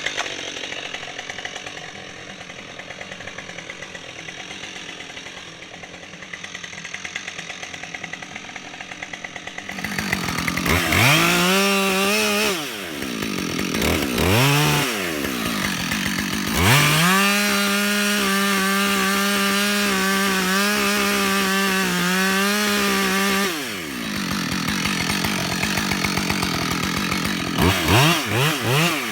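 Husqvarna 572XP two-stroke chainsaw idling, then revved up and down a few times. It is then held at high revs for about seven seconds as it cuts into a dead elm, drops back, and is blipped again near the end.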